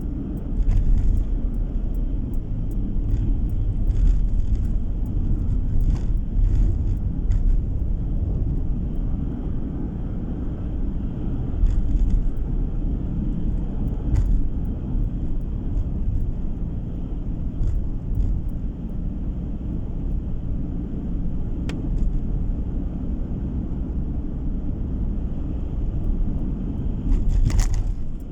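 Road noise of a moving car heard from inside the cabin: a steady low rumble of tyres and engine, with scattered light clicks and knocks.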